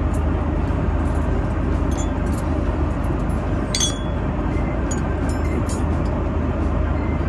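Steady airliner cabin noise in flight, with light clinks of cutlery and dishes during the meal; the sharpest clink comes a little past halfway.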